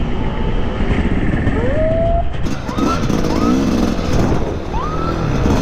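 Dirt bike engine revving in several short rising surges over a dense, steady rumble.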